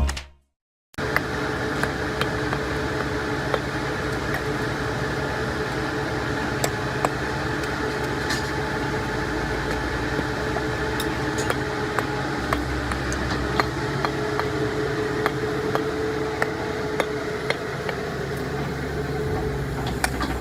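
After a short silence, steady machinery noise with a low engine-like hum, dotted with scattered sharp clicks and knocks.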